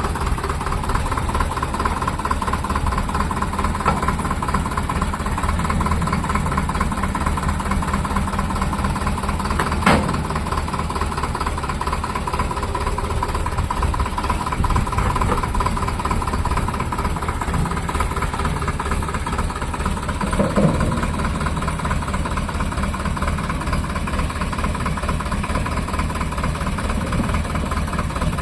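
Sonalika DI 750 tractor's diesel engine running steadily, with a sharp click about ten seconds in.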